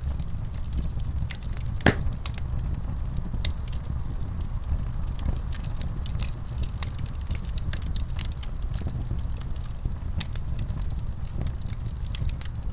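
Wood fire burning with a steady low rumble and frequent irregular crackles and pops. One louder pop comes about two seconds in.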